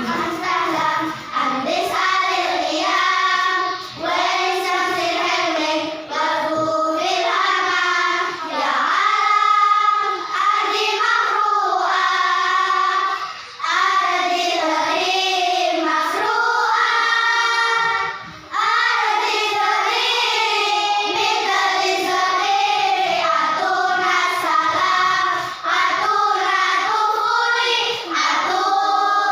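A choir singing a song, with short pauses between phrases a few times.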